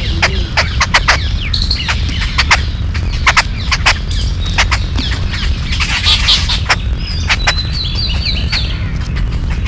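A group of yellow-billed babblers giving harsh, squeaky chattering calls in quick, irregular notes, with a run of short rapid chirps near the end. A steady low rumble runs underneath.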